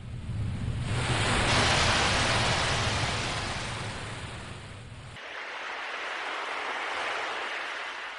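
Ocean waves washing in: one larger wave swells and breaks then recedes, followed by a second, gentler swell. A low rumble under the first wave stops abruptly about five seconds in.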